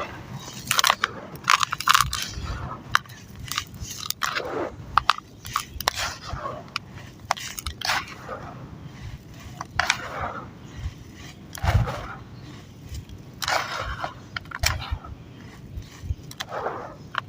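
Chunks of coloured sand and cement crumbling and breaking apart in water: irregular crunches and sharp cracks, with a few longer sliding sounds every few seconds.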